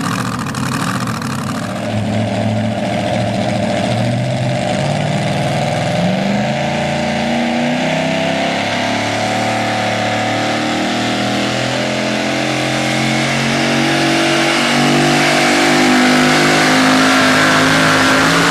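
Super modified four-wheel-drive pulling truck's engine revving hard under load, its pitch climbing over the run.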